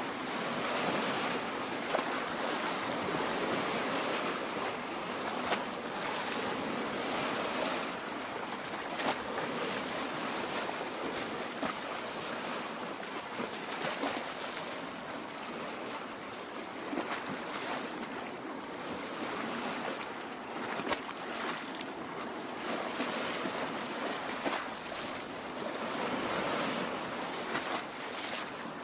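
Small waves lapping at a lake shore: a steady wash of water broken by frequent small splashes.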